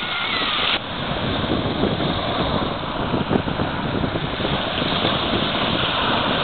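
Rough Black Sea surf: waves washing and breaking on the shore as a steady rushing noise, which changes abruptly about a second in.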